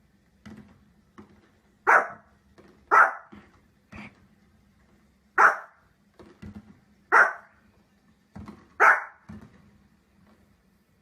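A dog barking: five loud, sharp barks a second or two apart, with fainter short sounds in between.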